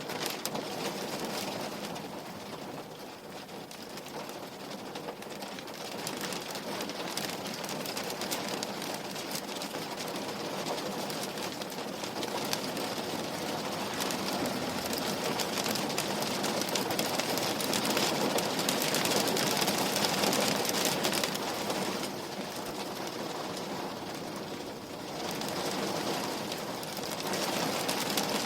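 Steady rain falling on a window pane: a continuous patter of many drop hits, easing slightly twice and then picking up again.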